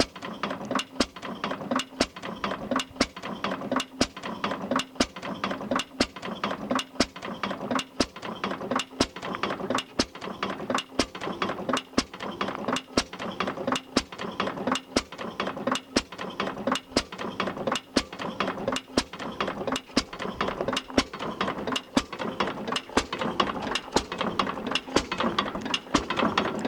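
Circa-1912 Falk 5 HP side-shaft gas engine running slowly, its side-shaft valve gear and igniter mechanism clicking and clattering steadily at about two sharp clicks a second.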